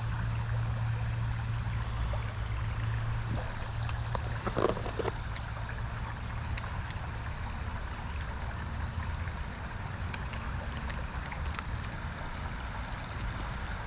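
Shallow creek water running steadily, with a few faint sharp ticks in the second half.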